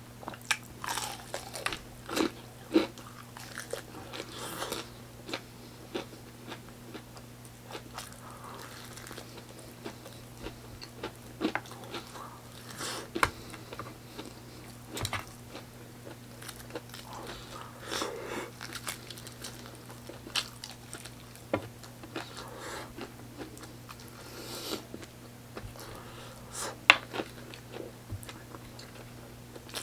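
Close-miked biting and chewing of crispy fried chicken: irregular crunches and mouth clicks throughout, with one sharp crunch near the end the loudest.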